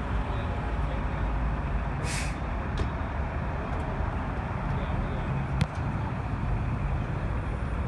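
Heavy truck engine running with a steady low rumble, and a short burst of air hiss about two seconds in, like an air brake being released, plus a couple of faint clicks.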